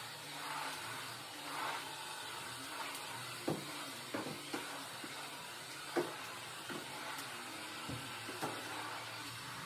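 A faint steady hum with a handful of soft, short knocks or clinks scattered through it, the clearest about six seconds in.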